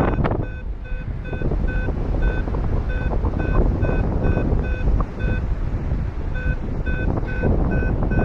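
Paragliding variometer beeping in a steady run of short, same-pitched beeps, about two to three a second, with a short pause past the middle. The beeps signal the glider climbing in lift. Heavy wind noise on the microphone runs underneath.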